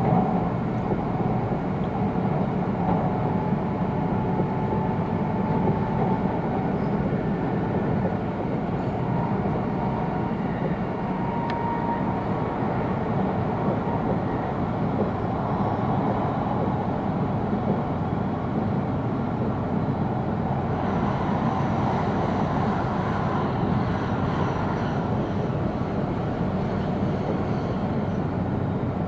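E2 series Shinkansen running, heard from inside the passenger car: a steady deep rumble of wheels and running noise. About two-thirds of the way through, a brighter hiss joins it.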